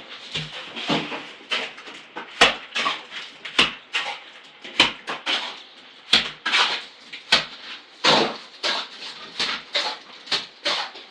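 Irregular sharp knocks and clatter, roughly one a second.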